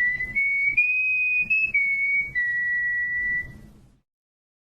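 A short whistled tune of about six notes that steps up in pitch and then back down, with the last note held longest.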